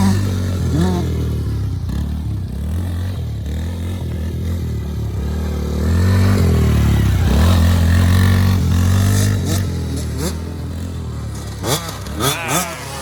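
Small youth off-road engines on a dirt bike and quad, revving up and easing off repeatedly, loudest about six to nine seconds in.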